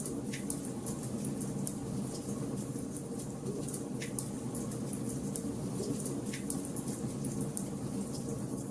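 Wood fire burning in a fireplace: a steady low rumble and crackle with many small ticks and occasional louder pops from the burning logs, about four of them.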